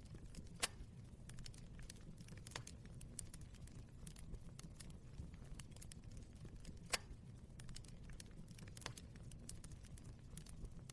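Fire crackling over a steady low rumble, with frequent small snaps and two louder pops, one about a second in and one about seven seconds in.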